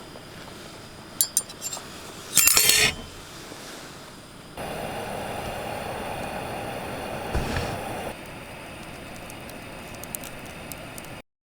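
Metal utensils clinking against cookware: a few light clinks, then a short louder rattle, followed by several seconds of steady hiss, with scattered faint ticks before the sound cuts off suddenly near the end.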